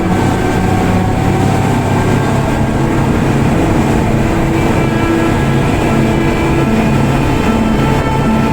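Boat engine running steadily under way, a constant low drone with a rushing noise of wind and water over it.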